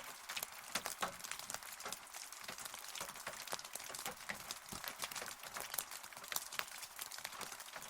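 Rain falling, a steady hiss with many separate drops striking close by as sharp little taps.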